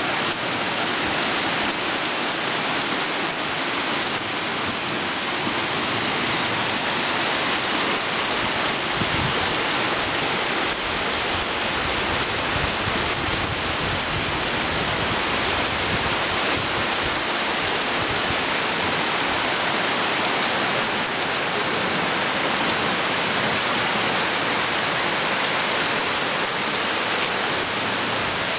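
Heavy tropical downpour: a dense, steady hiss of rain pouring onto the ground, plants and palm-thatch roofs.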